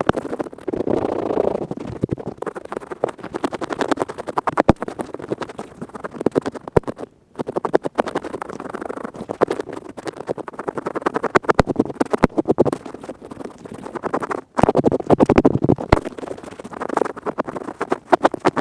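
An earpick scratching rapidly in fast, dense strokes of ear cleaning, the 'high-speed' scratchy kind. It breaks off briefly twice.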